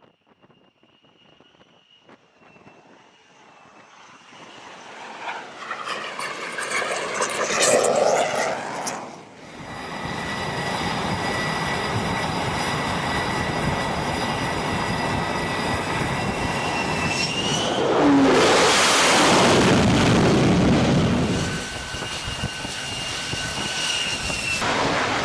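F-35B jet engine noise: a jet builds from faint to loud with a sweeping pitch as it passes about eight seconds in, then steady loud jet-engine running with a high whine, surging louder for about three seconds near the middle-to-late part.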